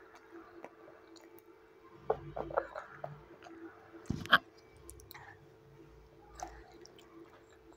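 A small child chewing noodles close to the microphone, with soft wet mouth sounds and small clicks. A metal fork knocks against the plate with one sharp clink a little after the middle.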